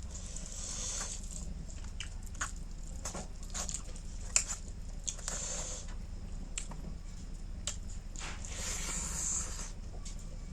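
Close-miked eating sounds: wet chewing and smacking, with scattered small clicks. One sharp click about four and a half seconds in is the loudest sound.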